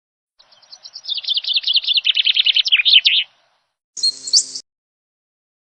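Small bird giving a rapid run of high chirps for about three seconds. After a short gap comes a brief, different sound with steady tones, lasting about half a second.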